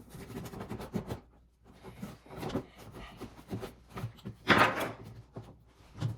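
Cardboard toy box being handled and pried at while hunting for a way to open its glued-down top: scattered knocks and scuffs, with one louder scrape lasting about half a second, about four and a half seconds in.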